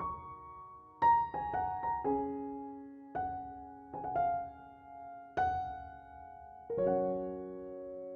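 Soft piano music, single notes and chords that ring on and fade.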